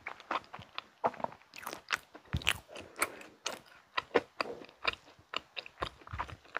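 Close-miked chewing of soft mint-chocolate cake, with irregular wet mouth clicks and smacks several times a second. Hands pull apart a chocolate muffin topped with mint cream.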